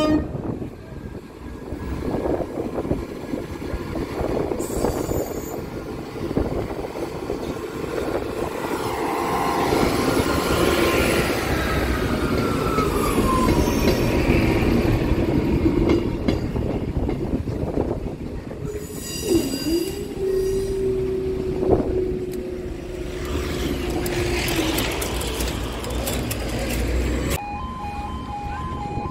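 A train running over a level crossing: the wheels rumble on the rails, with squealing from the wheels twice. Near the end the train noise cuts off suddenly and a level crossing's pulsing two-tone alarm remains.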